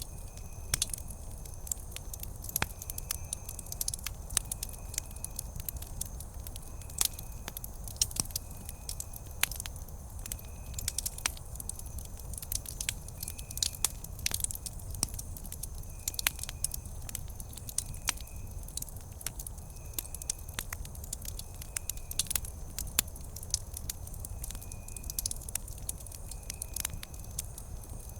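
Wood campfire burning steadily with irregular sharp crackles and pops over a low rumble of flame. A faint high chirp repeats about once a second behind it.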